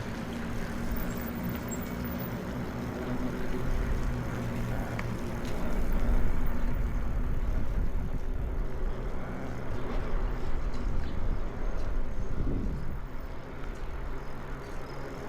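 Wind rushing over the microphone of a camera riding along on a bicycle, with a steady low engine-like hum at the start that fades and returns near the end.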